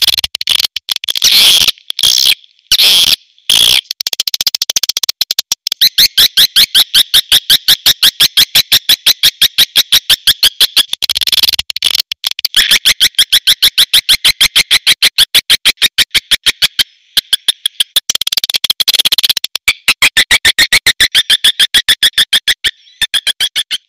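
Swiftlet call lure sound: fast trains of sharp, high chirps, about a dozen a second, broken by short pauses, the kind of call played to draw edible-nest swiftlets into a swiftlet house.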